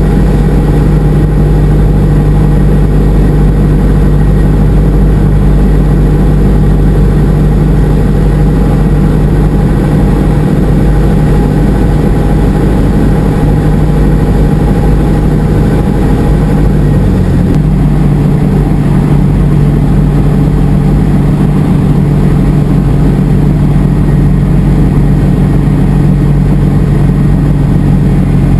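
Cessna 172SP's four-cylinder Lycoming engine and two-blade propeller running steadily at power, a loud continuous drone whose note shifts slightly a little past halfway through.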